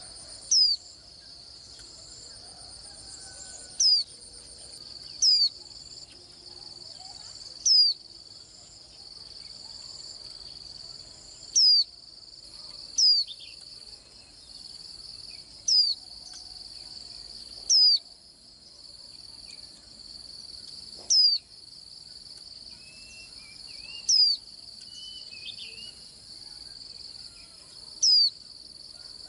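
White-eye giving single thin, sharp, down-slurred call notes, about eleven of them spaced a second or a few seconds apart, over a continuous high-pitched insect trill. A few softer, lower warbling notes come about two-thirds of the way through.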